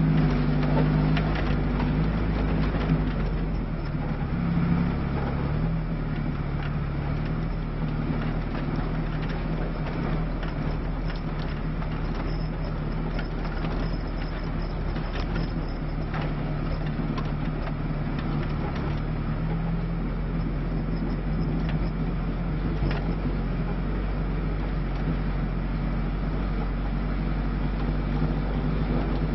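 Lada Niva's four-cylinder engine running under load off-road, heard from inside the cabin. It is louder for the first few seconds, then steady and a little quieter, with a few short knocks.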